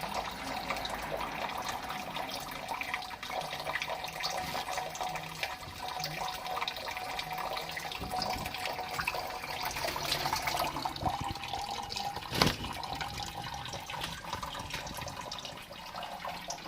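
Water running steadily, like a tap into a sink, with a single sharp knock about twelve seconds in.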